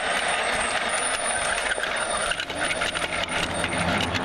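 Lego Duplo toy train running on plastic track: a steady rattle full of quick small clicks.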